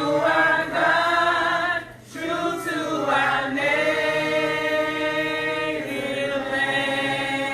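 A group of people singing together in unison, with long held notes and a brief break between phrases about two seconds in.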